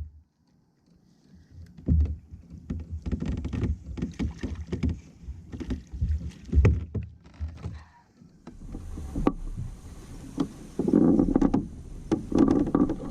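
Irregular knocks, bumps and rubbing on a plastic fishing kayak's hull as the angler moves about and handles gear, with a louder stretch of noise near the end.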